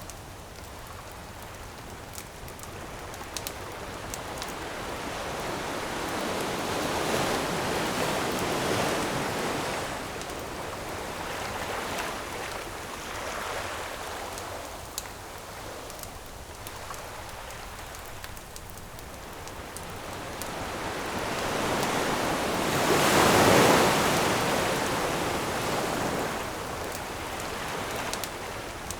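Ocean waves breaking and washing up a shore, swelling loudest about eight seconds in and again, most strongly, around twenty-three seconds, with a few sharp crackles from a wood campfire.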